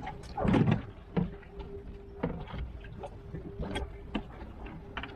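Scattered knocks and clicks of hands and tools working aboard a boat, with one loud thump about half a second in and a faint steady hum through the middle.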